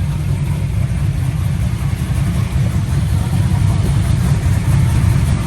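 Camaro's engine idling loudly, with a steady, choppy low-end pulse.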